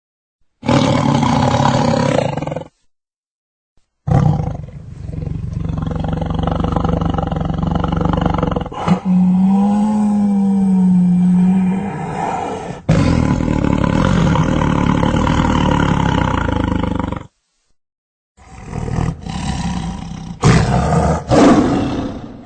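Big cat roaring and growling, in several separate recordings spliced together with short dead-silent gaps between them. Partway through, a long, low, steady moan holds for about three seconds.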